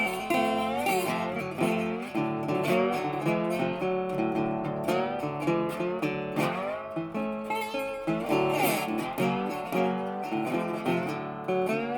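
Background music: acoustic guitar played with quick picked and strummed notes and occasional slides.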